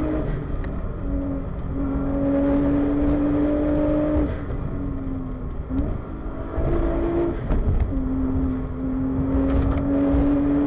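Nissan R35 GT-R's twin-turbo V6 heard from inside the cabin at speed, holding a steady note for long stretches, with a few brief changes in pitch in the middle, over heavy tyre and road rumble.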